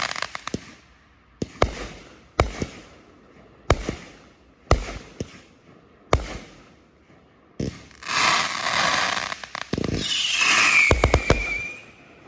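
Winda 'Notorious' 500-gram consumer firework cake firing: loud single shots about a second apart, each trailing off in crackle, then a long stretch of dense crackling with a falling whistle, a rapid cluster of shots, and the cake going quiet just before the end.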